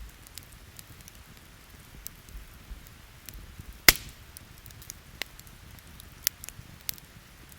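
Wood campfire crackling with scattered sharp pops, one loud pop a little under four seconds in and a few smaller ones later, over a faint steady hiss of rain.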